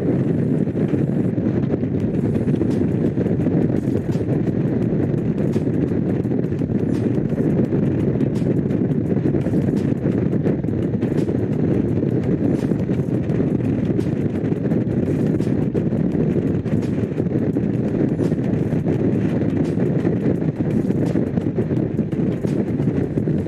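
Honda CX500's liquid-cooled V-twin engine running steadily while the motorcycle rides along at an even pace.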